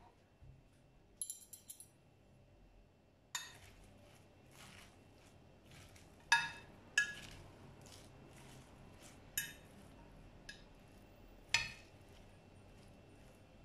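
Dishes and cutlery clinking: a quick light rattle about a second in, then several separate sharp knocks of crockery with a short ringing after each.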